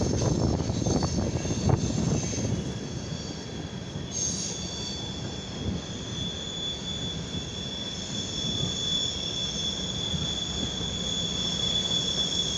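CSX freight train of covered hopper cars rolling past, the cars rumbling on the rails with a steady high-pitched wheel squeal that grows strong about four seconds in.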